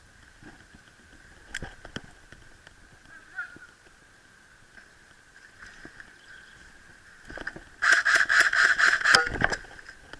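Burst of airsoft gunfire, about ten rapid shots over a second and a half near the end, over a faint steady high-pitched hum and a few scattered clicks.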